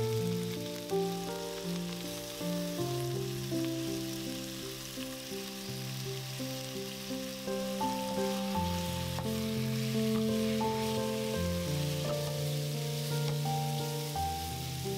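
Background music playing over chicken pieces and onions frying in oil in a frying pan, a steady sizzle throughout, with a wooden spoon stirring them.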